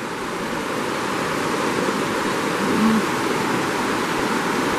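River water rushing steadily, a constant even wash of noise. A brief low tone sounds once, a little past halfway.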